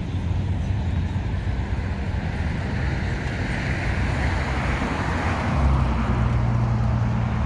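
City street traffic: a motor vehicle passes with a swelling tyre-and-engine hiss, over a steady low engine hum that grows stronger about two thirds of the way through.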